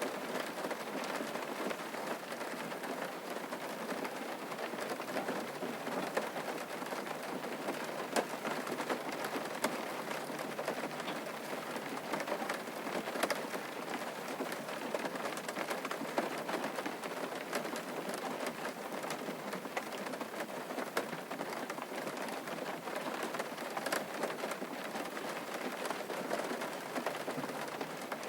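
Steady rain falling, with many individual drop hits ticking out of the even hiss.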